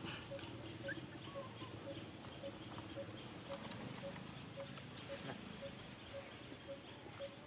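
A bird calling a single short, low note over and over, about twice a second, with a brief high chirp about two seconds in and a few soft ticks later on.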